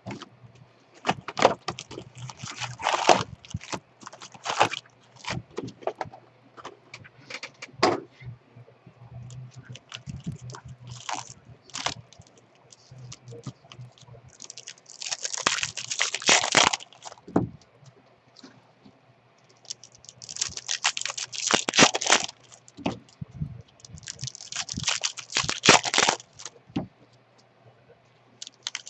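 Sealed trading-card boxes and packs being opened by hand: plastic wrapper crinkling and tearing, with cardboard scraping and clicking, in irregular bursts. A faint low hum runs underneath.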